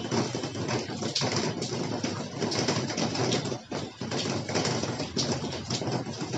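Gusty wind rushing over the microphone with dense, irregular tapping and crackling, as of rain hitting it while riding; no steady engine note comes through.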